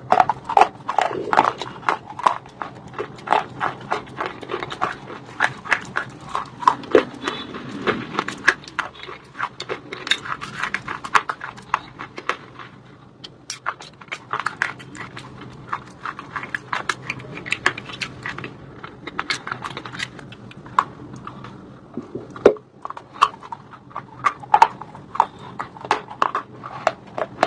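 Close-up crunching and chewing of dry white shale stone: a dense, irregular run of sharp crunches and crackles as the brittle pieces break between the teeth.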